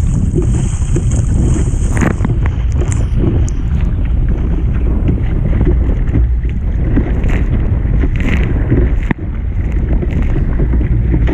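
Strong force 6–7 wind buffeting the microphone, over rough sea water sloshing and splashing around a kayak.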